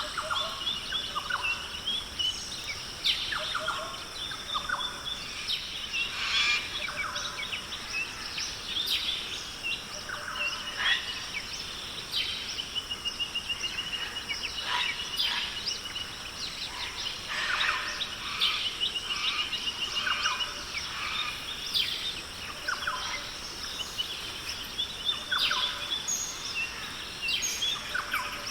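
Australian rainforest ambience: several birds call over one another with short chirps and rapid trills, one long trill running for a few seconds near the middle. A steady high hum continues beneath them.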